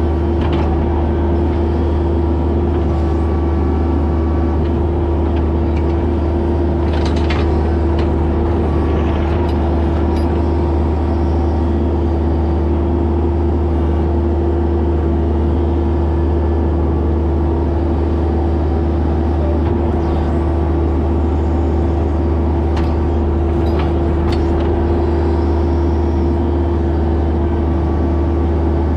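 Mini excavator's diesel engine running steadily while digging, a constant low hum with a few short knocks from the work.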